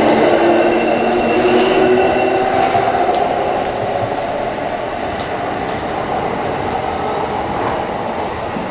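JR East 209-series Keihin-Tohoku Line electric train pulling out of the station: motor whine in several steady tones over the rumble of its wheels, slowly fading as it draws away.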